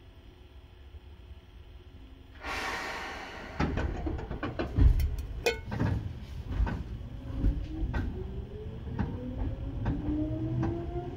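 Seibu 2000 series electric train moving off from a station: a sudden burst of air hiss about two seconds in, then clunks and knocks under the car with a low rumble, and a motor whine rising steadily in pitch from about halfway through as the train accelerates.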